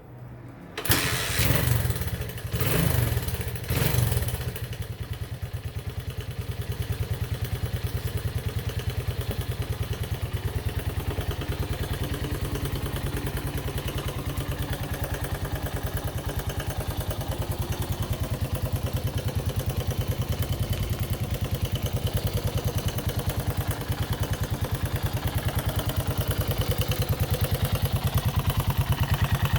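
1982 Honda XL125R's single-cylinder four-stroke engine starting about a second in, revved in a few blips, then settling into a steady idle with an even beat.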